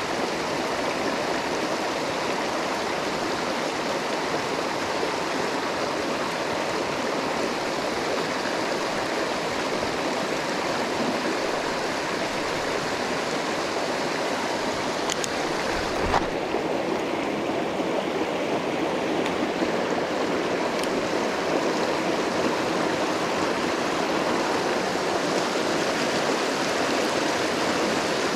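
Mountain stream water rushing steadily over rocks. A single short knock about halfway through.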